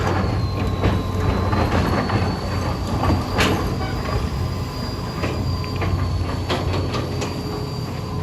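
Hitachi EX200 hydraulic excavator working: its diesel engine runs steadily under a faint, steady high-pitched whine, with repeated metallic clanks and knocks, the loudest about three and a half seconds in.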